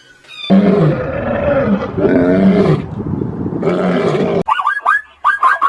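An animal's loud, low, drawn-out calls, wavering up and down in pitch for about four seconds, followed near the end by a quick run of short high chirps.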